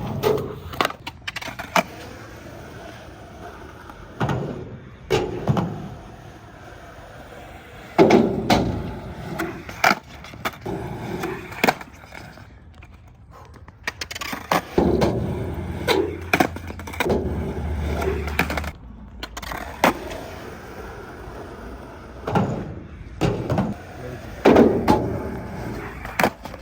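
Skateboards rolling, with sharp clacks of tails popping and boards landing and slapping down, again and again.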